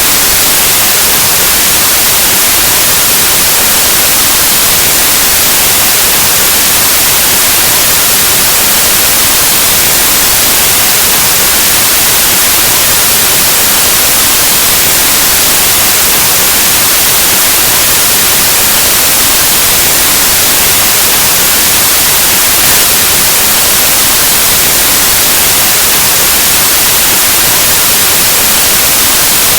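Loud, steady white noise: an even static hiss like an untuned analog TV or radio, unchanging throughout.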